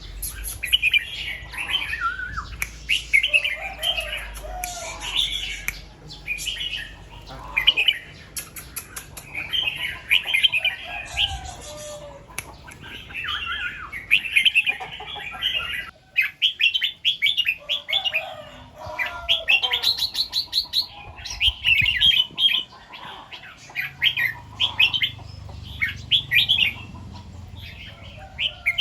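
Red-whiskered bulbul singing: short, bright phrases of quick notes repeated one after another, some sung twice or three times in a row.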